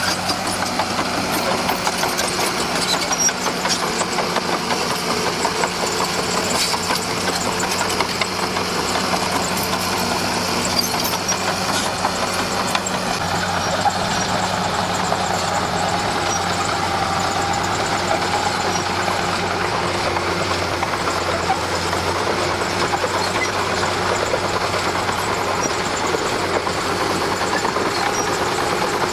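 Komatsu D41P bulldozer's diesel engine running steadily, with scattered light clicks and clanks from the machine.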